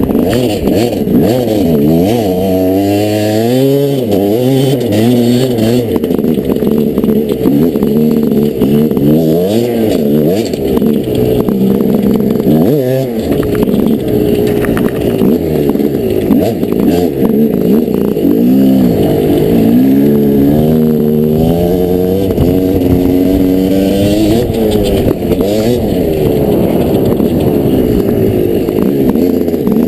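Dirt bike engine being ridden hard, its pitch climbing and dropping repeatedly as the throttle is opened and closed and it shifts through the gears.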